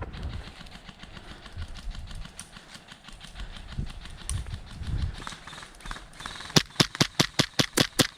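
Footsteps and gear rustling through outdoor ground cover. About two-thirds of the way in, an airsoft rifle starts firing a rapid string of sharp shots, about six a second.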